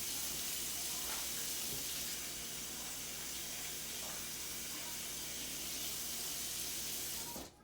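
Kitchen faucet running steadily as hands are washed under it, then turned off abruptly near the end.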